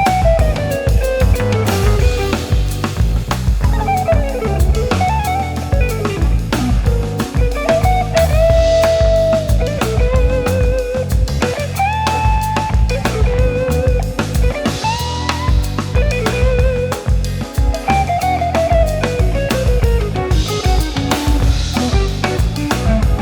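Instrumental passage of a band: drum kit with a steady beat, guitar, and keyboards and synthesizers carrying a sliding, gliding lead melody.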